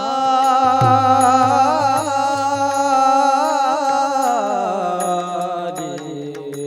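Male kirtan singer holding one long devotional note with a wavering vibrato, sliding down to a lower pitch about four and a half seconds in. He is backed by a low drone and regular percussion strikes.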